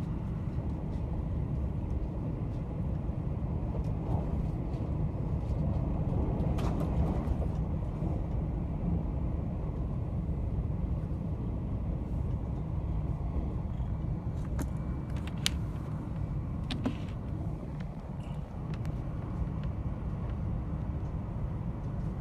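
Steady low rumble of a moving train heard from inside the passenger car, with a few short clicks scattered through it.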